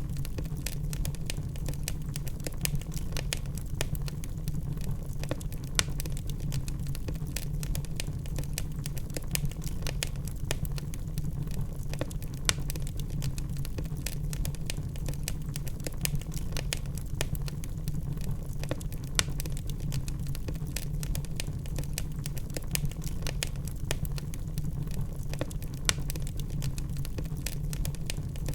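Log fire crackling: dense, irregular sharp pops and snaps over a steady low rumble of the burning fire.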